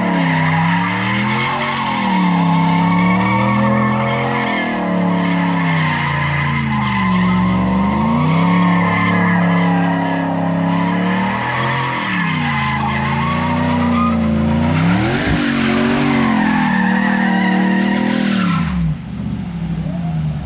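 A 2019 Ram 1500's V8 running through a Flowmaster Outlaw exhaust with the resonators deleted, revving up and down over and over while the tyres squeal as the truck drifts. Near the end the engine note drops away.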